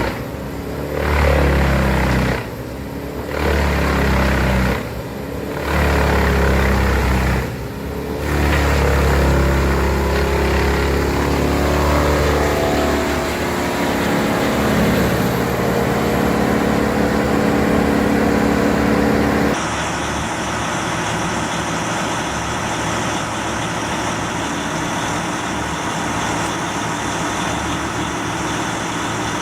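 Bandit 21XP wood chipper running loud under load as a hardwood log is fed in, its engine note dipping briefly three times in the first eight seconds and recovering, then holding steady. About twenty seconds in, the sound switches abruptly to a different steady machine drone.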